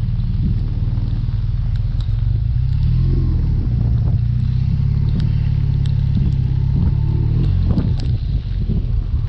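BMW R1200RT boxer-twin motorcycle engine running at road speed, heard from the rider's seat. Its note shifts a little in pitch midway, over a steady hiss of wind and wet road.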